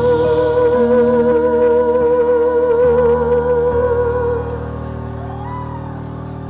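A live rock band's closing held chord, with one long note held with vibrato on top. The top note fades about four and a half seconds in, and the lower chords ring on more quietly.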